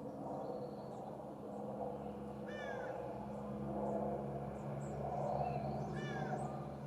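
A bird's call that bends down in pitch, given twice about three and a half seconds apart, with a few faint high chips from small birds over a steady low background hum.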